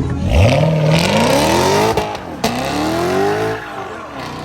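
A car engine accelerating hard, its pitch climbing steeply, breaking off twice about two seconds in and climbing again, then fading near the end as the car pulls away.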